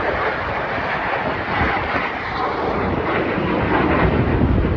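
Jet aircraft of the Red Arrows, BAE Hawk trainers, flying past with a steady rushing jet roar that grows louder near the end.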